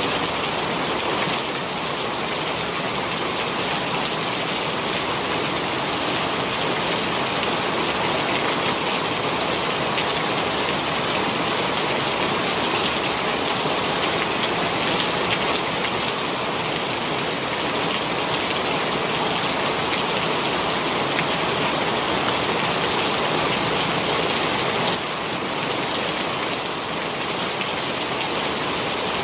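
Heavy rain pouring steadily, a dense even hiss of drops striking surfaces, easing slightly near the end.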